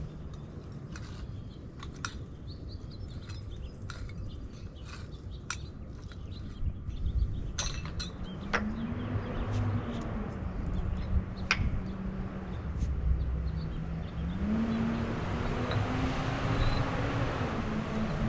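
Scattered sharp scrapes and clicks of a steel tuck pointer scoring the edges of clay pavers to mark them for cutting, over a steady engine hum that rises in pitch and falls back twice, the second time with a swell of rushing noise.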